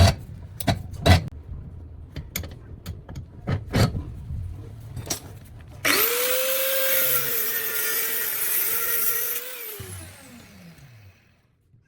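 Handling clicks and knocks, then an angle grinder's electric motor switched on: it runs steadily with a whine for about four seconds, is switched off, and winds down with a falling whine.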